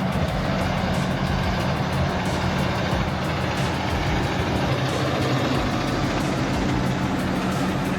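Heavy diesel engine of harvest machinery running steadily: a constant low drone with no change in speed.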